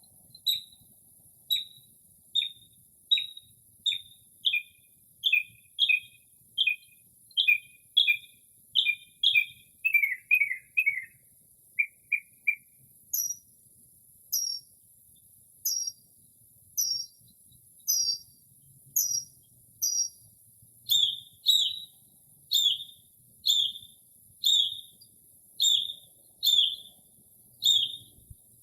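Northern mockingbird singing, mimicking other birds' calls: it repeats one short whistled phrase over and over, switches to a quicker run, then to a higher phrase and then a lower one, each repeated several times in a row.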